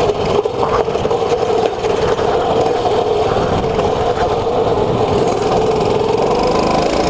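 Small mini bike engine running at a steady, held throttle, with an even, constant note.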